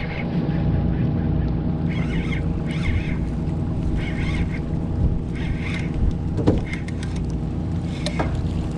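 Boat engine running steadily, with short bird calls repeating over it about once a second.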